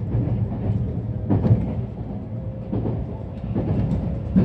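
Electric commuter train heard from inside the carriage while running: a steady rumble of wheels on rails, with a few sharper clacks from the track.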